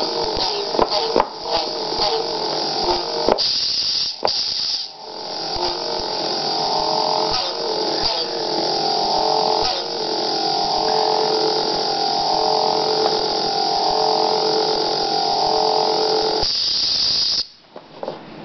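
Electronic tones and effects from a repaired US 2.1 board playing through a speaker: many steady pitches warbling together, with scattered clicks, cutting off abruptly near the end.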